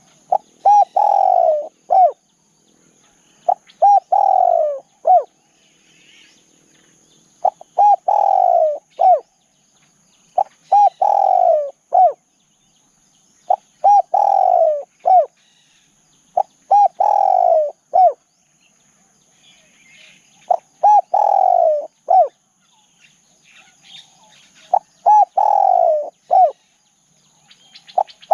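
Spotted dove cooing: one call phrase repeated about every three seconds, each a short note, a longer falling coo and a short closing note. Faint chirps of other birds sound between the phrases, over a faint steady high hiss.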